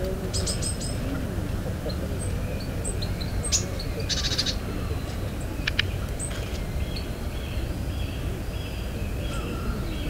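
Daurian redstart calling: scattered short, high 'hit' notes mixed with sharp clicking 'tack' calls, with a quick run of clicks about half a second in and another about four seconds in.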